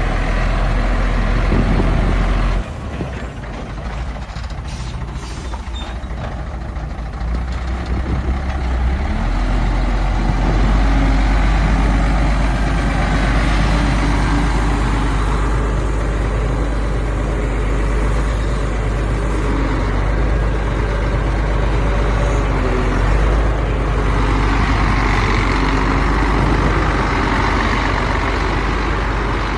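Heavy diesel earthmoving machinery running with a deep, steady rumble; the engine note drops back a few seconds in and builds up again about ten seconds in.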